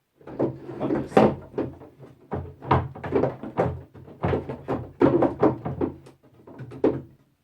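Wooden pieces knocking and clattering against a wooden chest as they are handled and fitted inside: a quick, irregular run of many wood-on-wood knocks, with a low hum beneath.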